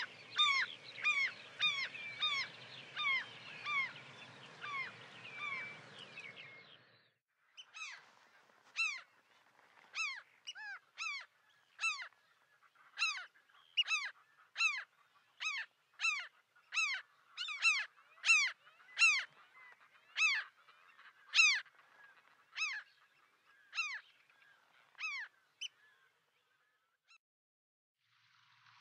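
A bird calling in a long series of short, pitched calls, about two a second at first. The series breaks off briefly about a quarter of the way through, resumes more loosely spaced, and stops a few seconds before the end.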